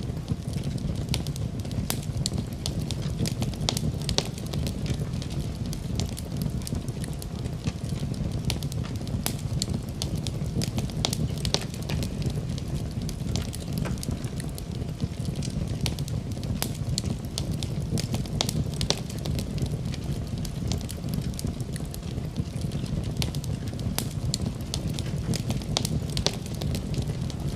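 Fire burning in a fireplace, crackling and popping irregularly over a steady low rumble.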